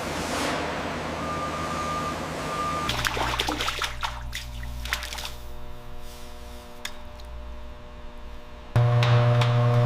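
Industrial machinery sounds that change abruptly several times. First there is a rushing hiss with a steady tone. About three seconds in, a low hum takes over with scattered clicks and clatter. Near the end a loud, steady machine hum cuts in.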